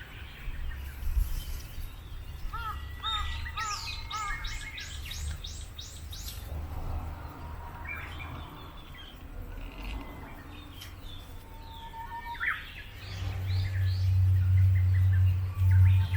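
Small songbirds chirping and calling, with a quick run of repeated notes a few seconds in. About three-quarters of the way through, a loud low rumble comes in and holds.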